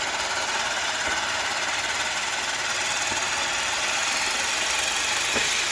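A ground firework burning with a steady, loud hiss and fine crackle.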